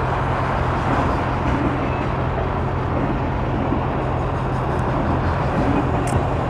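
Sport motorcycle under way: steady engine hum under heavy wind rushing over the helmet microphone.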